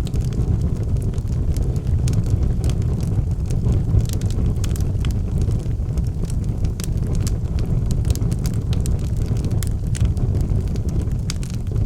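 Fire burning in a fireplace: a steady low rumble of flames with frequent sharp crackles and pops.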